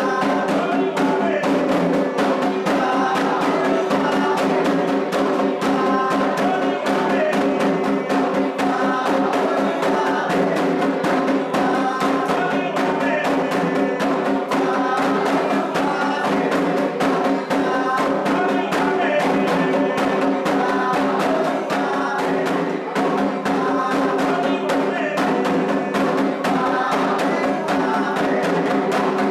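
Candomblé atabaque drums playing a fast, steady rhythm while a group sings a chant for the orixá Ewá.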